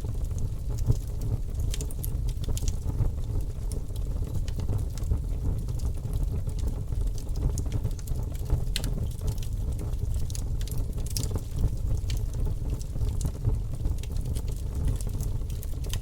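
Fire crackling in a fireplace: many scattered sharp pops and crackles over a steady low rumble.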